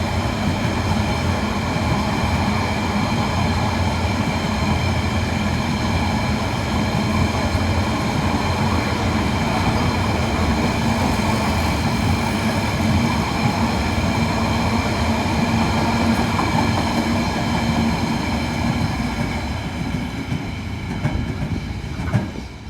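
Train running past with a steady rumble and a steady pitched hum over it, fading away near the end, with a single sharp click just before it dies down.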